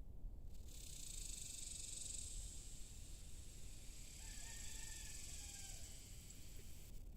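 A distant rooster crows once, about four seconds in, a single call of about a second. Under it runs a steady high hiss that starts and stops abruptly.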